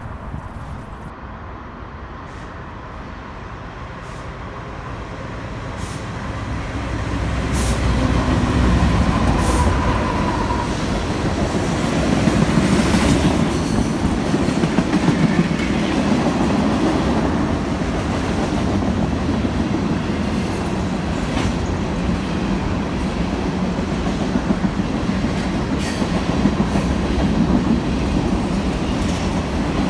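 Norfolk Southern diesel-led freight train approaching and passing close by, growing louder over the first eight seconds or so as the locomotives come through. A long string of freight cars then rolls by steadily, with occasional clacks of the wheels.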